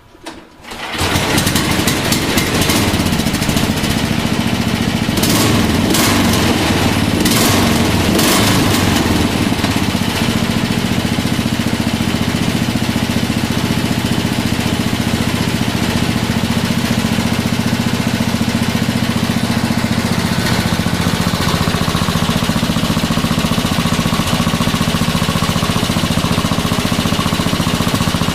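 Lifan engine starting about a second in and then running steadily through a homemade exhaust, with a few sharp cracks in the first several seconds before it settles.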